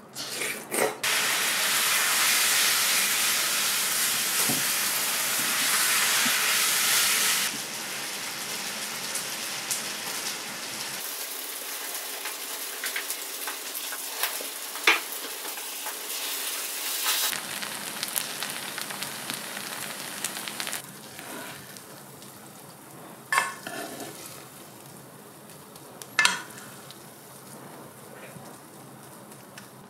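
Rice stir-frying in a pan, sizzling loudly for about the first seven seconds, then softer, with a few sharp knocks as it is stirred and scraped.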